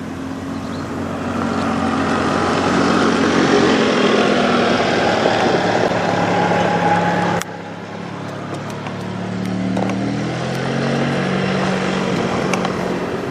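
Peterbilt semi truck diesel engines passing on the road. One truck's engine grows steadily louder, then cuts off abruptly about seven seconds in, and a second truck engine follows with its pitch rising as it accelerates.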